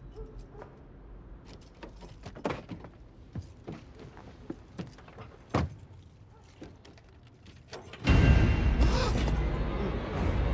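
Scattered small clicks and knocks, then about eight seconds in a loud, steady rush of aircraft engine noise starts suddenly.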